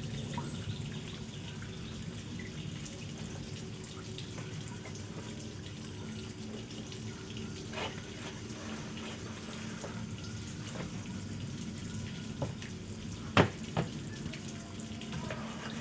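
Water running and splashing steadily, as in washing at a sink or basin, with a few light knocks and one sharp knock shortly before the end.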